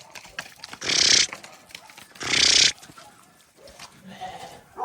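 Sheep bleating: two rough, noisy calls about a second and a half apart, with fainter animal sounds after them.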